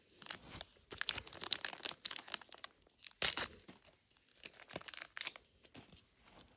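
Thin plastic packaging crinkling and tearing in irregular handfuls as small miniature toy items are unwrapped, with sharp crackles, loudest about three seconds in, thinning out near the end.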